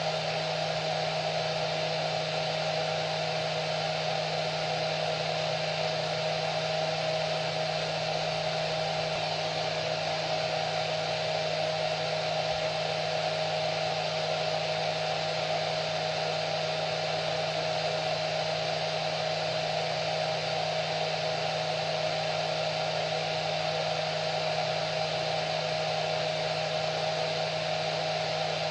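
Hair dryer running steadily: a continuous airy rush with a steady motor whine, unchanging throughout.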